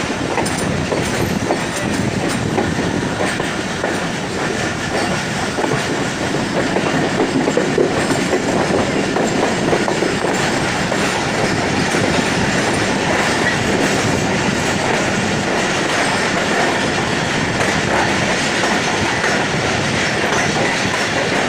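Passenger train rolling past with a steady rumble, its wheels clattering over the rail joints.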